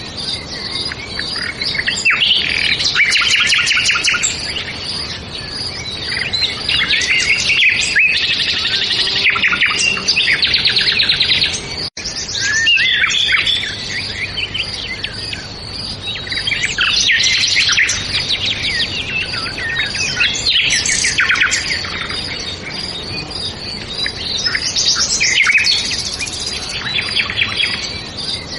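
Songbirds chirping and singing continuously, rapid trills and twitters overlapping one another, with a brief dropout in the sound near the middle.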